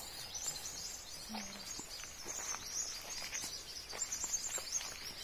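Faint outdoor ambience of birds chirping rapidly and high-pitched, with a few soft footsteps on grass.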